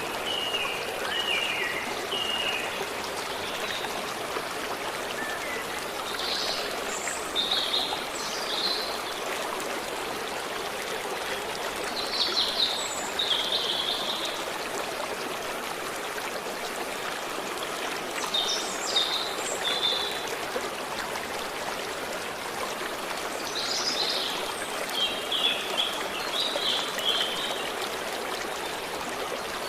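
Forest stream flowing steadily, with birds giving short runs of chirps every few seconds.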